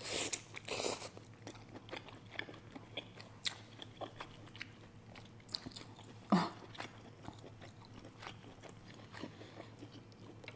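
Close-up mouth sounds of biting into and chewing a crab leg: a bite at the start, then wet chewing with many small crunchy clicks and one louder, lower mouth sound about six seconds in.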